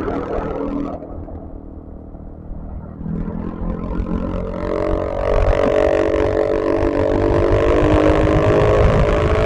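Yamaha XMAX 250 scooter's single-cylinder engine rising in pitch and getting louder from about three seconds in as it accelerates, then running steadily at speed, with wind rumbling on the microphone.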